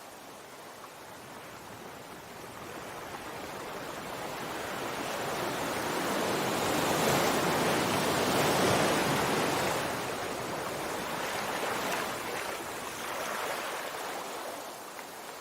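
Sea waves breaking on the shore: the surf's rushing hiss builds to a peak about halfway through and ebbs away, with a smaller wave washing in near the end.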